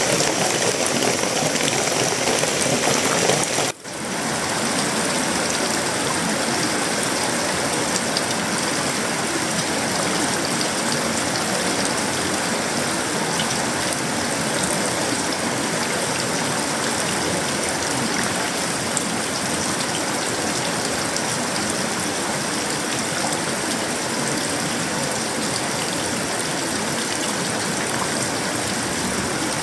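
Steady, heavy tropical rain falling on sheet-metal roofing, wood and leaves, a dense even patter. About four seconds in, the sound drops out for a split second and comes straight back.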